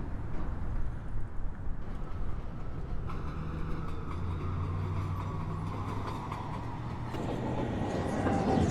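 Subway train pulling into the station: a steady low rumble under a motor whine that falls slowly in pitch as the train brakes. Wavering higher tones come in near the end as the level rises.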